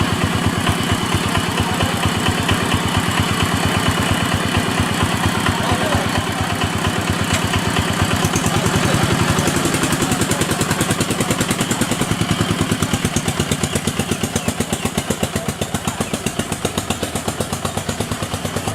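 A small engine running steadily with a rapid, even beat, getting a little quieter toward the end.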